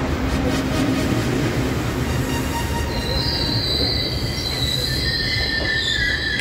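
Passenger train on the rails with a steady rumble; about three seconds in, high-pitched wheel squeal sets in, joined by a lower squealing tone near the end.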